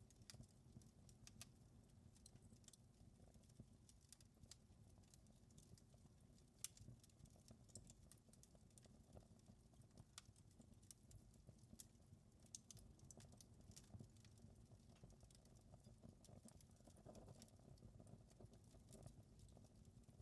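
Wood fire in a fireplace crackling quietly: irregular sharp snaps and pops over a low, steady rumble of the flames, with one louder pop about six and a half seconds in.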